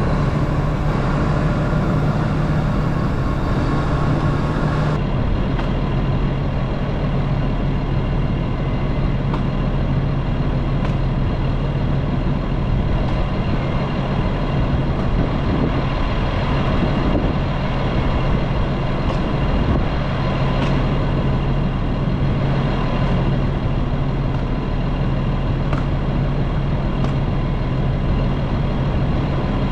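Heavy machine engine running steadily at a constant speed, with a low, even hum and a slight change in tone about five seconds in.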